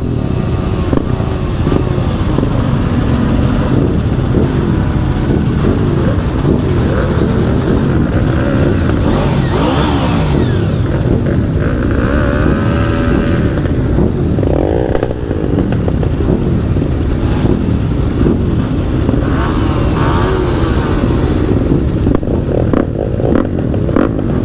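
Several motorcycle engines running together, with overlapping pitches rising and falling as riders rev and change speed.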